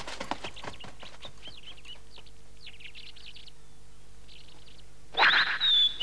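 Small birds chirping and twittering in quick, high, short calls on a cartoon soundtrack. About five seconds in, a louder sound with a high whistling tone comes in.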